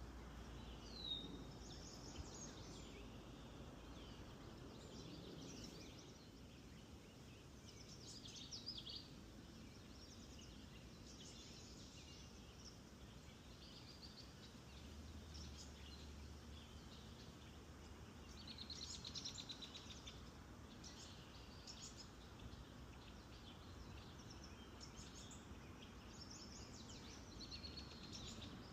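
Several songbirds singing and calling faintly, scattered short high phrases and chirps with a couple of fast trills, over faint low background noise.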